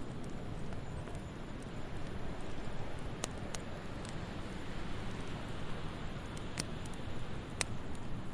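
Wood fire crackling in a fireplace: a steady low rumble and hiss with a few sharp pops scattered through the second half.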